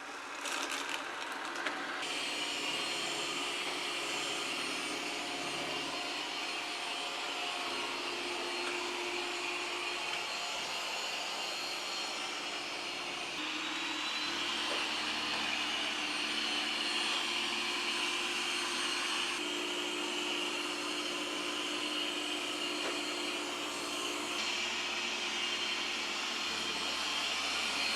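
yeedi Vac Max robot vacuum running with a steady suction whir and a faint hum underneath, its tone shifting slightly a few times.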